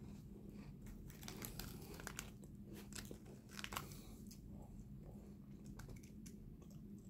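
Faint crunching and chewing as a person bites into a snack, with crackles from the plastic wrapper in his hand.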